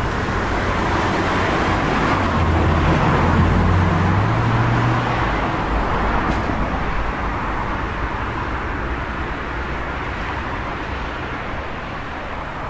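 A road vehicle driving past in city traffic: its engine hum and tyre noise swell to a peak a few seconds in, then fade slowly into the steady traffic noise.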